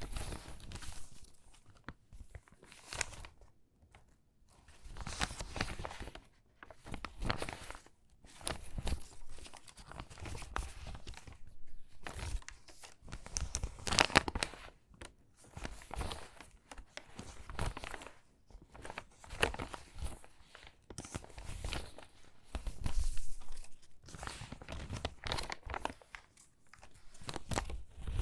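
Stiff, crinkly water-damaged magazine pages being handled and sorted by hand, crackling in uneven bursts with short pauses between them.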